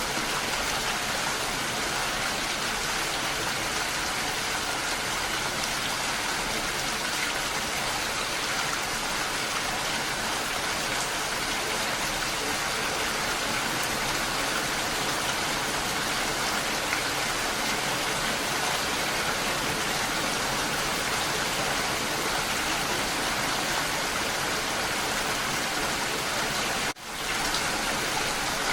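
Steady rain falling, an even hiss of many drops. Near the end it cuts out for an instant and swells straight back.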